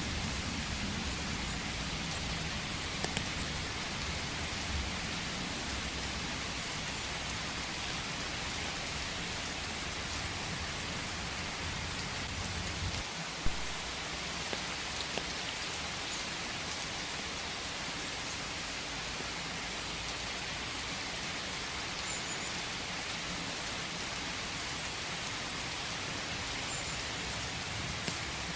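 Steady rain falling in a forest, an even hiss with scattered drop ticks. A low rumble underlies the first half and drops away about halfway through, just after a single louder tap.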